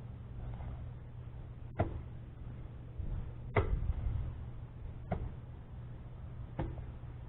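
Dirt being dug out with a hand tool: four sharp strikes about a second and a half apart, over a low steady hum.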